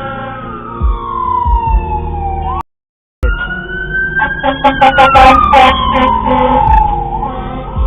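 An emergency-vehicle siren wailing, its pitch sliding slowly down. The sound cuts out for about half a second near three seconds, then the siren comes back rising and falling again, with a cluster of sharp clicks in the middle of it.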